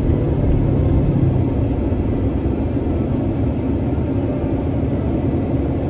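Steady low rumble of engine and road noise from a 1972 Gran Torino Sport cruising at a constant speed.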